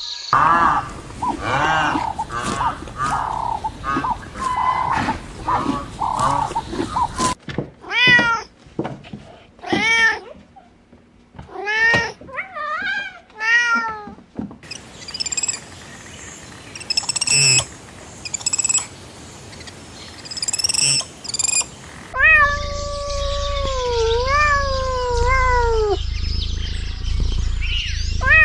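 Cats and kittens meowing: first a rapid run of short mews, then single arching meows about a second apart, then thin high mews, and near the end longer drawn-out meows that slide up and down in pitch.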